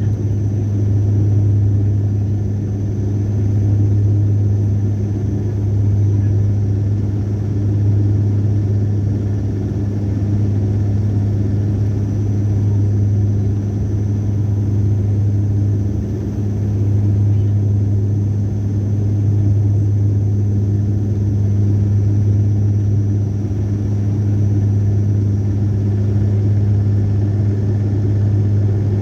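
A steady, loud low engine drone with slow swells in level every few seconds.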